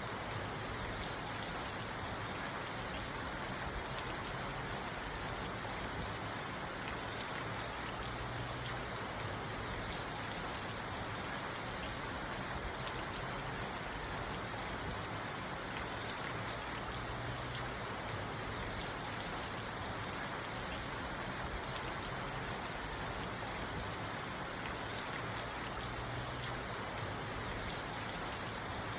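Steady rain on a car, heard from inside the cabin: an even hiss with many small drop ticks on the roof and glass, unchanging throughout.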